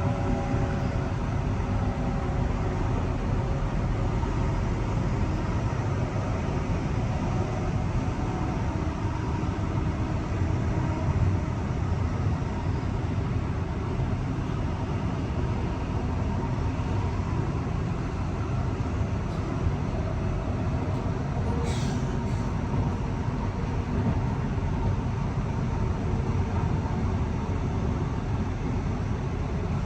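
Electric passenger train running with a steady low rumble, a faint whine sinking in pitch over the first several seconds, and one short click a little past the middle.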